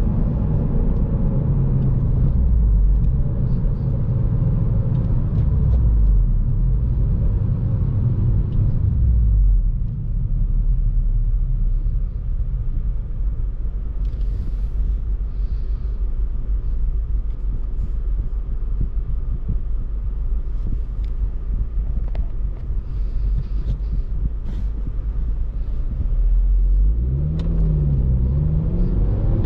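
2014 Honda Civic Si's 2.4-litre four-cylinder engine and road noise while driving. The engine pulls strongly at first, eases off about a third of the way in to a quieter cruise, then near the end its revs climb, dip at a gear change and climb again.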